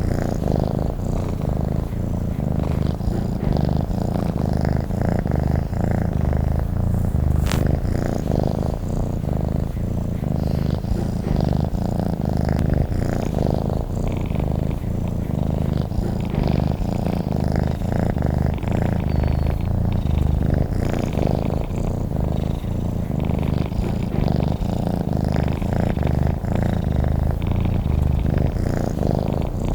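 Domestic cat purring steadily and continuously, close to the microphone, a low rumble of fast even pulses. One brief click about seven and a half seconds in.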